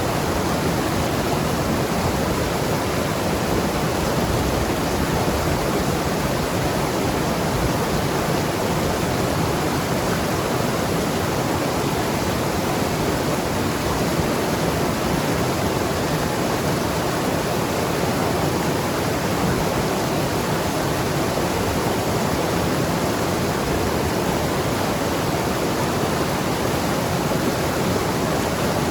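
Mountain river rushing and gurgling over rocks: a steady, unbroken roar of moving water.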